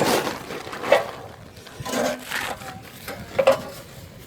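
Handling sounds from the steel parts of a collapsible barbecue grill and its carry bag: a few separate knocks and rubs.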